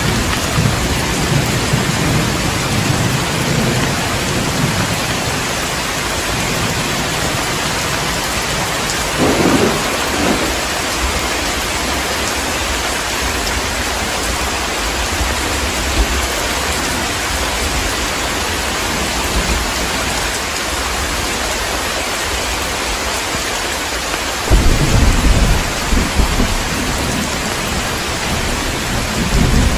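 Heavy rain falling steadily, with rolls of thunder rumbling at the start, briefly about ten seconds in, and again near the end.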